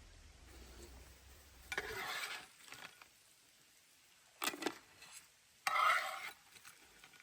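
Utensil scraping and stirring in a pot or cup, in short bursts about two and six seconds in, with a sharp clink in between.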